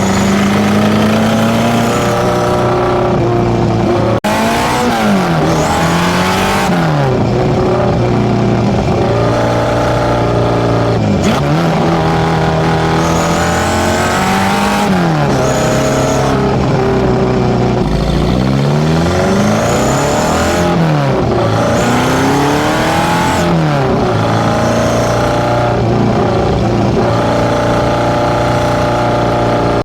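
Datsun B210's highly tuned A15 four-cylinder engine, with FCR41 carburettors and a one-off 54 mm stainless straight exhaust, idling with a lumpy, loud exhaust note. It is blipped several times, the pitch rising sharply and falling back to idle each time, with a run of quick blips around the middle.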